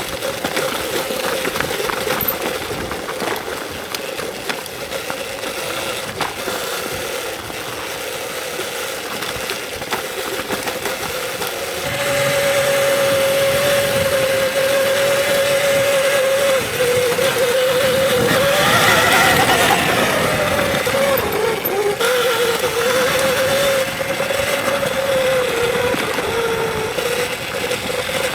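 Electric dirt bike's motor whining as it is ridden along a trail: a steady tone that gets louder about halfway through and wavers up and down with the throttle, over a haze of wind and tyre noise.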